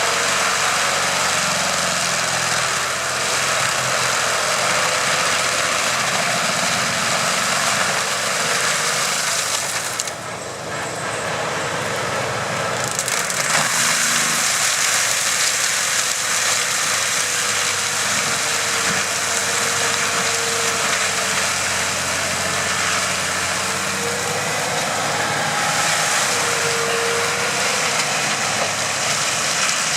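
Stump grinder running steadily, its engine and cutting wheel making a loud, continuous noise that drops briefly about ten seconds in.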